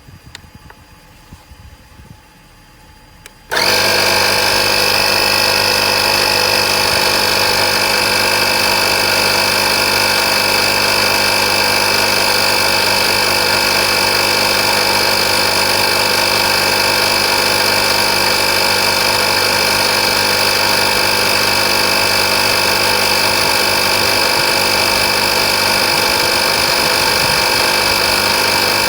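Oasser portable air compressor switching on about three and a half seconds in, then running steadily with an even, loud motor-and-pump hum.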